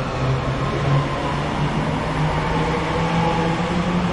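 Northern Class 331 electric multiple unit pulling out of the platform, its traction whine rising steadily in pitch as it accelerates over a rumble of running gear.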